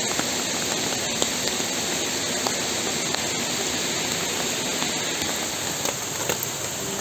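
Steady rain falling, with now and then a faint tick of a single drop landing close by.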